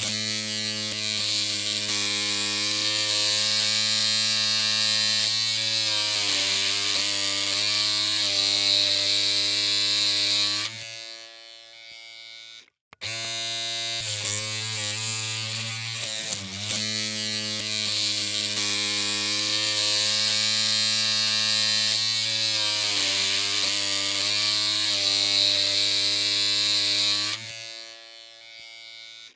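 Electric hair clippers running with a steady buzzing hum. Twice the buzz drops to a softer hum for about two seconds, cuts out for a moment, and starts again.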